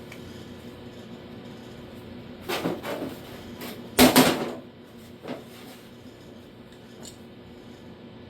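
Metal clattering and clanking as tools or sheet-metal parts are handled: a few light rattles about two and a half seconds in, two louder ringing clanks about four seconds in, and a smaller one a second later.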